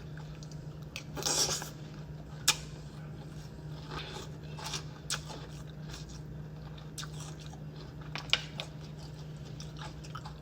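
Close-up chewing and crunching of Cap'n Crunch's Crunch Berries cereal in milk, with a few sharp clicks scattered through and a steady low hum underneath.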